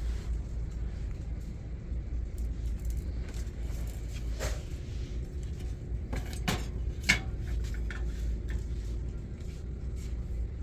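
A steady low rumble of shop background, broken by a few sharp clinks and knocks of handled goods, the loudest about seven seconds in.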